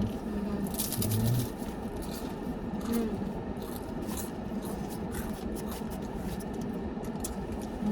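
Steady low rumble of a car cabin, with a brief burst of rustling about a second in and a few faint clicks.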